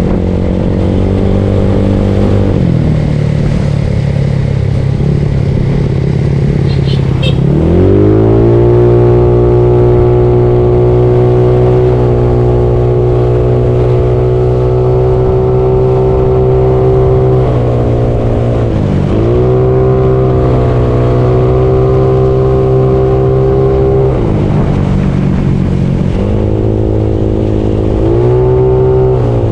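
Bored-up Yamaha Mio scooter's single-cylinder engine running on the ride, over a steady rush of wind. The engine rises in pitch as the throttle opens about a quarter of the way in, then holds steady. It dips briefly twice, eases off past the middle, and opens up again near the end.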